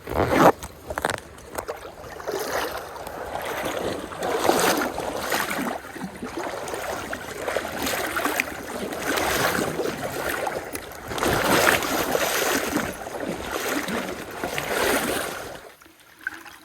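River water rushing over rocks, surging and easing unevenly, with a sharp knock right at the start; it stops abruptly shortly before the end.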